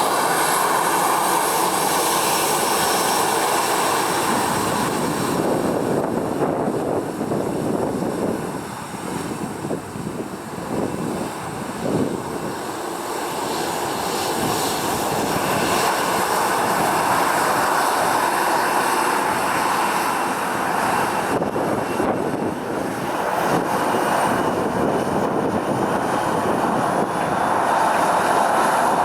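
Jet engines of a Boeing 737-800, CFM56 turbofans, running close by with a steady rush and a thin high whine. The sound dips for a few seconds about a third of the way in, then swells back up and holds steady.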